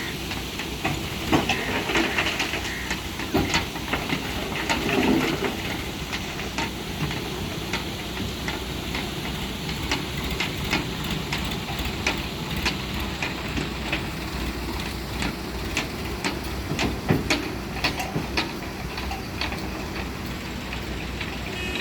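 Diesel engine of a backhoe loader running steadily, with frequent sharp clanks and knocks from the working machine.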